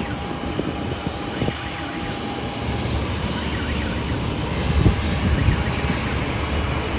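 Boeing 737 jet engines on approach, a steady rushing noise that grows louder about two and a half seconds in, with gusty wind rumbling on the microphone and two thuds about five seconds in.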